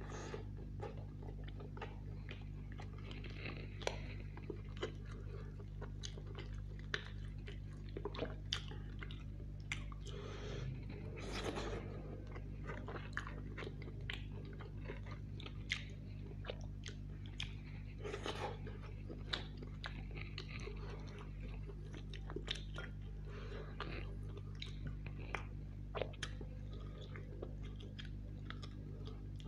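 Close-miked chewing and biting of roast chicken, with many short sharp mouth clicks scattered throughout, over a steady low hum.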